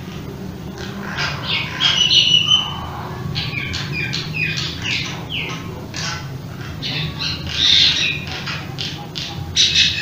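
Birds calling: a rapid series of short chirps and squawks, several of them sliding down in pitch, with a louder cluster about two seconds in and again near the end.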